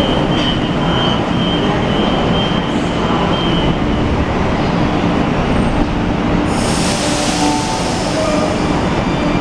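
Sydney Trains double-deck electric train moving slowly along the platform, its wheels and motors giving a steady rumble and hum. A thin wheel squeal runs through the first few seconds, and a sudden loud hiss, like released air, starts about two-thirds of the way in.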